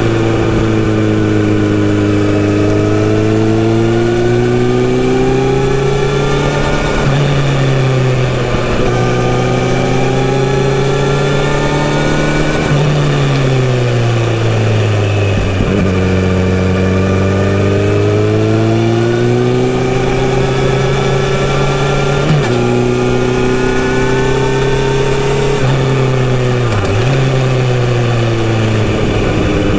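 Kawasaki Z900RS inline-four motorcycle engine and exhaust under riding, the note climbing with the throttle and dropping at gear changes; about halfway through the revs fall away for a few seconds before pulling up again.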